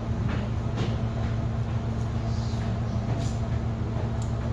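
KiHa 110 series diesel railcar's engine running steadily with a constant low hum.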